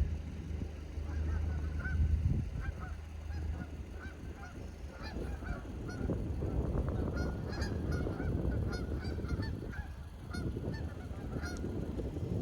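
A flock of geese honking, many short calls overlapping and repeating, over a low rumble that is heaviest in the first couple of seconds.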